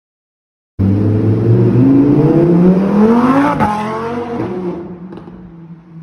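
Lamborghini Huracán Evo's naturally aspirated V10 accelerating hard as the car pulls away, its note climbing in pitch for a couple of seconds. At about three and a half seconds in there is a short break for an upshift, and then the engine note carries on and fades as the car drives off.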